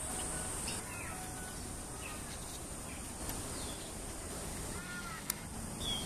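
Birds giving short chirps and arching whistled calls over steady outdoor background noise, with a high thin insect buzz that fades about a second in. A single sharp click near the end.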